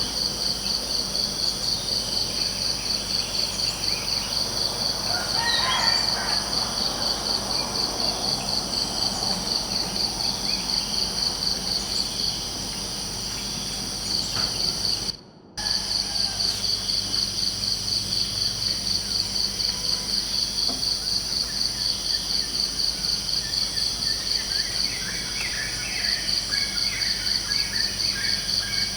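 A chorus of crickets chirping in a steady, even pulse, with a few short bird chirps about six seconds in and again near the end. The sound cuts out completely for a moment about halfway through.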